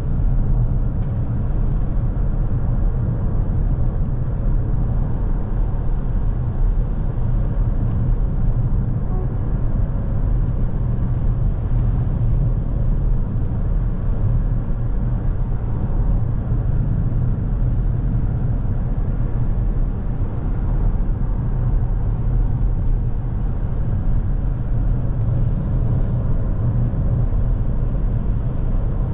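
Cabin noise of a 2023 Lexus NX350h hybrid SUV on the move: a steady, low road and tyre rumble, with a few faint clicks.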